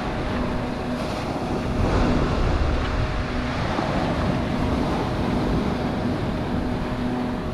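Strong wind blowing over the microphone with surf on the shore, a dense steady rush, and a faint steady hum underneath.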